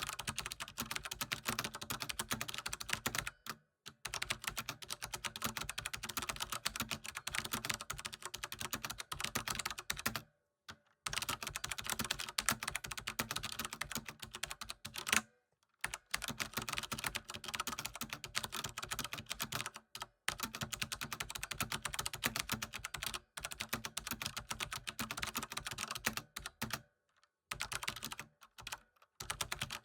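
Rapid typing on a computer keyboard, a dense run of key clicks broken by brief pauses every few seconds.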